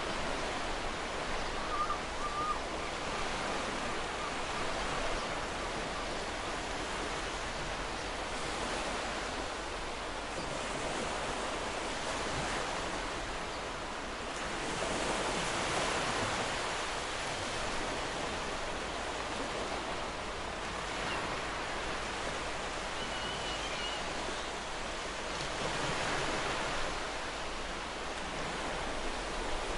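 Sea waves washing onto a beach: a steady surf hiss that swells as waves break, once about halfway through and again near the end.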